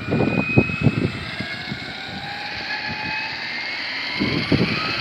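Large radio-controlled helicopter in flight, its motor and rotor whine slowly rising in pitch, with rotor wash buffeting the microphone in the first second and again near the end.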